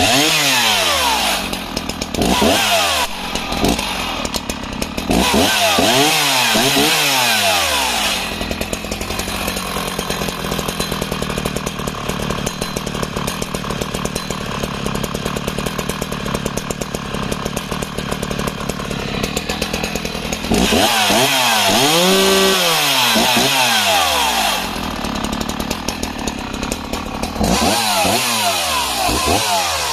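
Husqvarna 61 two-stroke chainsaw revved up and down several times, then held steady at full throttle through a cut into a spruce or pine log for about twelve seconds without bogging down. It is revved again, makes a shorter cut, and revs once more near the end.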